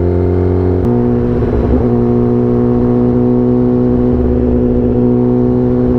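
Motorcycle engine running under way, its note climbing slightly, then changing abruptly about a second in and holding steady.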